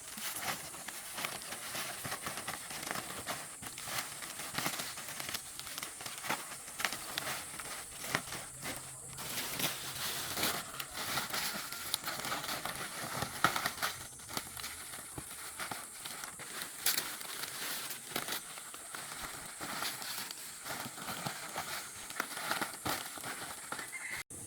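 Palm leaves rustling and crackling as they are handled, with many irregular small crackles and snaps, over a steady high hiss.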